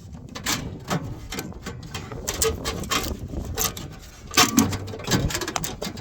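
Irregular clicks, knocks and light clanks of metal parts being handled, with a louder cluster of knocks about four and a half seconds in.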